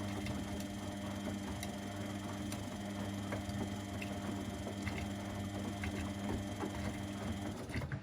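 Laundry machines running: a steady motor hum with scattered light clicks, and a faint high whine that cuts off near the end.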